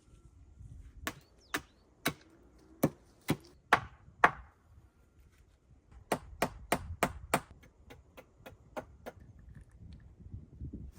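Chopping with a hand tool: about seven sharp strikes half a second apart, then after a short pause a quicker run of about a dozen lighter strikes.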